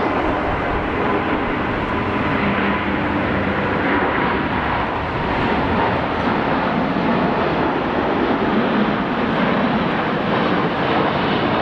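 Boeing 787-8 Dreamliner's Rolls-Royce Trent 1000 jet engines at take-off thrust, a loud, steady roar with a faint whine in it.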